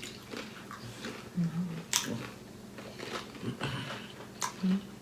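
A person chewing and biting food at close range, with irregular soft mouth and food sounds and two sharp clicks, one about two seconds in and one near the end.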